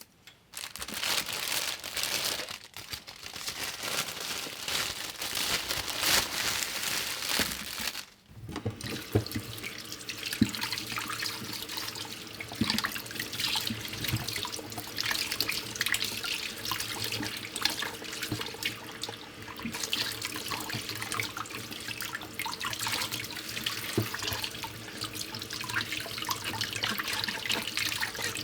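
Water running from a tap into a sink, with splashing and dripping; the flow stops briefly about eight seconds in, then runs on.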